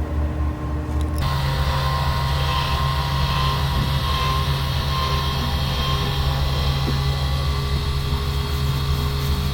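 Steady running noise of a vehicle on the move: a constant low engine drone with an even road and wind hiss, starting about a second in and holding level.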